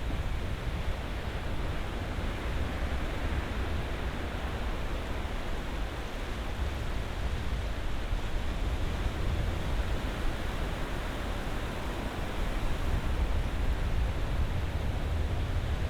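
Ocean surf washing steadily: a deep rumble under a continuous hiss, swelling a little louder near the end.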